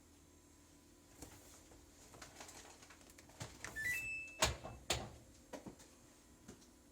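Samsung top-load washer's control panel: buttons clicking, a short rising three-note electronic beep just before the middle, then two sharp clunks half a second apart, typical of the lid lock engaging. The washer then stays silent: it locks but will not start.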